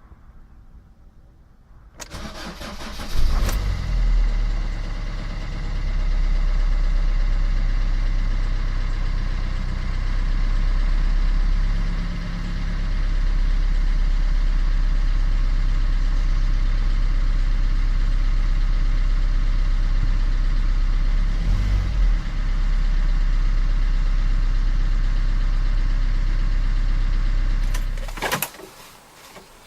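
Car engine cold-started in extreme sub-zero cold: a brief crank about two seconds in, catching with a loud rise in revs just after, then running at a steady fast idle. The sound stops abruptly near the end.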